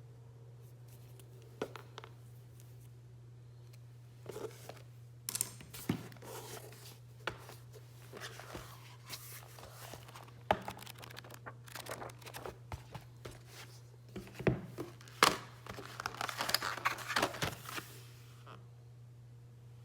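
Packaging being handled close up: irregular crinkling, rustling and tearing with small clicks, busiest near the end. A steady low hum runs underneath.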